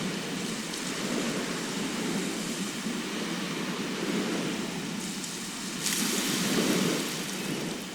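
Sea surf washing steadily onto the shore, with a wave breaking and hissing up the beach about six seconds in.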